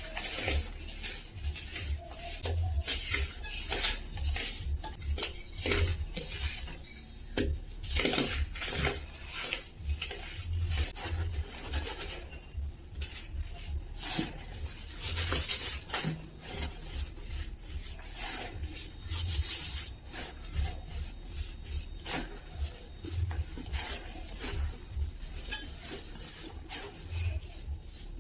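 A dry, brittle material being crumbled and rubbed, making a dense, irregular run of small crackles and scrapes.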